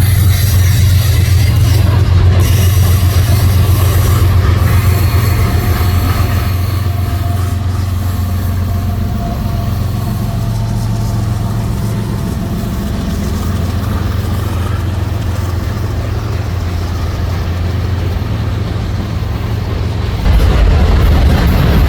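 Train rolling past: a loud, steady low rumble of the cars going by, with faint wheel squeal in the middle and a sudden jump in loudness near the end.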